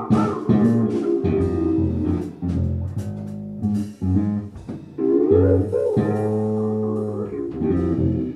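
Live band music: a guitar plays the lead with bending notes over bass guitar and drums.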